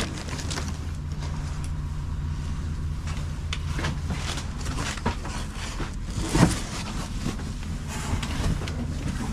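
A steady low motor hum, like an engine idling, with a few short knocks and rustles of items being handled.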